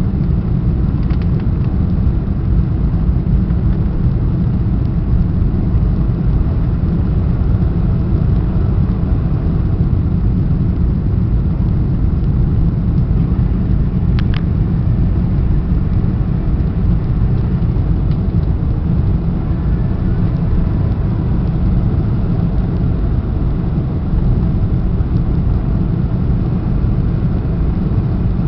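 Cabin noise inside a Boeing 747-400 in flight: a steady, loud, deep rumble of engines and airflow. A brief sharp high sound comes about halfway through.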